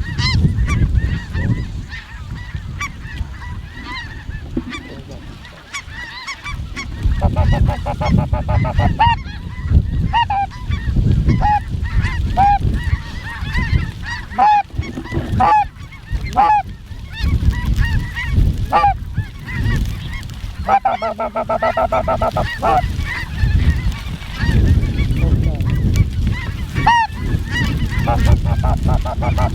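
Snow geese calling: many short, high, arched honks, sometimes in dense clusters of overlapping calls, over a steady low rumble.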